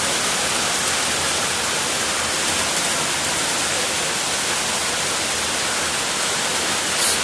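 A steady, even hiss of noise, with one brief sharp tick near the end.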